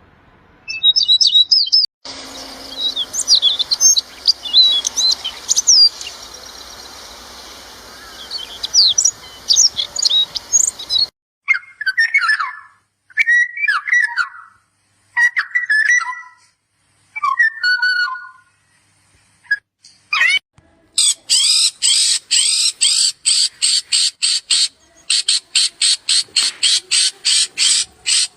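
Songbirds singing in three changing stretches. First, many quick, high rising whistles over a steady hiss. Then a series of lower warbled phrases, each about a second long with a short gap between. Near the end, a fast, high trill of rapid even pulses.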